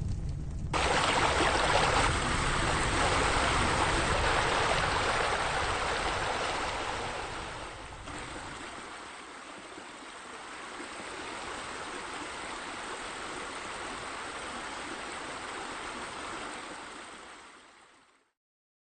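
Steady rush of running water, with a low rumble under it for roughly the first half; it fades away near the end.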